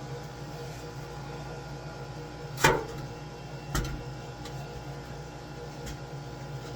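A steady machine hum, with two sharp knocks about a second apart, the first one louder.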